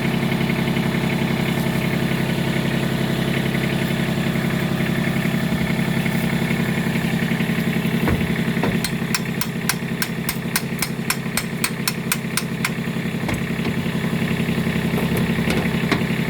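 Kubota tractor's diesel engine idling steadily. Midway, a run of light, evenly spaced clicks, about four a second, goes on for some four seconds over the engine.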